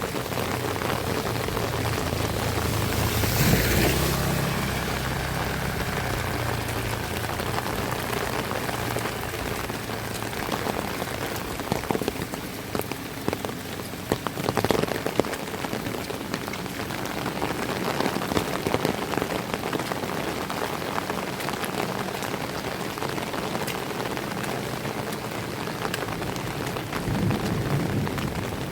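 Heavy rain falling steadily, with close, sharp drips and splats scattered through it. There is a louder swell of rain noise about three seconds in, and a low rumble near the start and again near the end.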